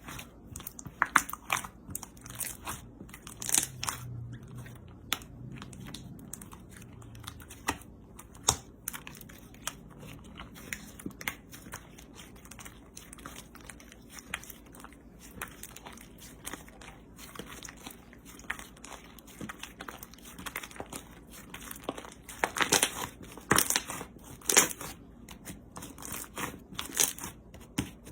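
Slime being squeezed and poked by hand, making irregular crunchy crackles and clicks. The crackles come thicker and louder near the end.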